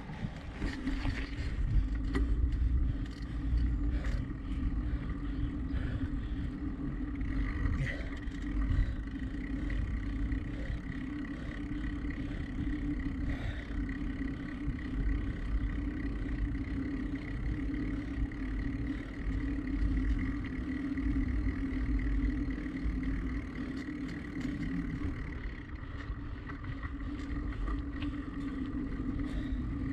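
A bicycle rolling along, recorded on a gimbal-mounted GoPro: low wind and road rumble with a steady hum and a faint high tone throughout.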